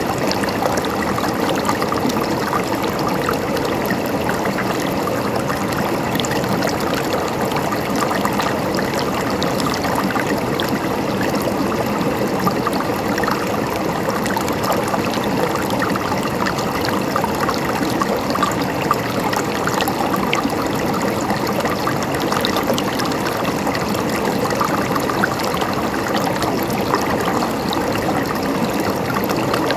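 Mountain stream flowing and babbling over rocks, a steady, even rush with many small splashes and gurgles.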